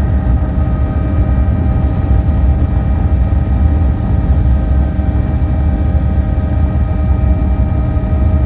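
Helicopter in flight heard from inside the cabin: a loud, steady low drone of rotor and engine, with several steady whining tones and a thin high whine above them.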